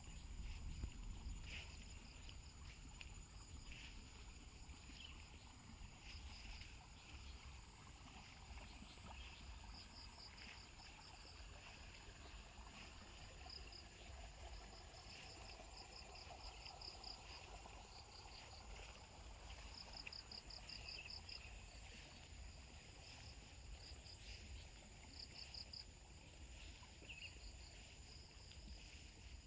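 Faint countryside insect chorus: a steady high-pitched buzz, with short pulsed chirping trills that come in bursts every few seconds, over a low rumble.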